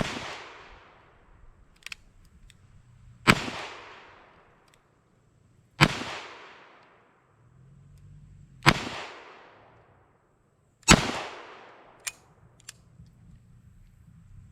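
Smith & Wesson Model 66-8 .357 Magnum revolver with a 4.25-inch barrel fired double action: five shots a couple of seconds apart, each followed by an echo that dies away over about a second. Faint clicks come between some of the shots.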